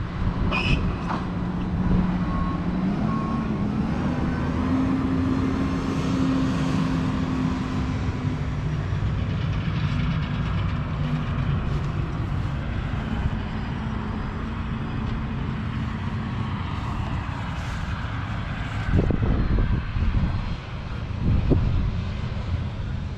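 JCB Fastrac 4220's 6.6-litre six-cylinder diesel engine running steadily. Its pitch rises a little about three seconds in, then holds.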